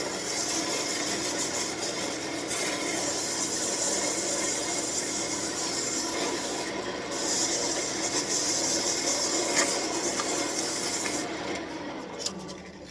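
320-grit sandpaper rubbing against a birch wand spinning on a wood lathe, a steady hiss that breaks briefly about seven seconds in and stops near the end.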